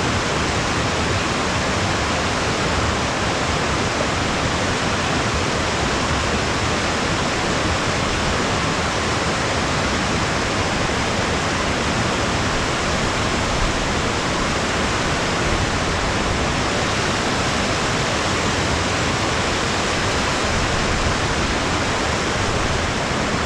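Mountain waterfall cascades rushing: a loud, steady roar of falling water with no change throughout.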